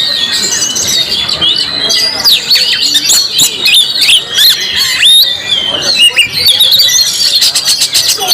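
Oriental magpie-robin (kacer) singing: a rapid, unbroken stream of loud whistled notes that swoop up and down, mixed with short, harsh clicking notes.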